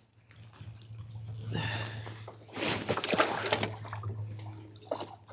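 Water splashing and sloshing in two short bursts over a steady low hum.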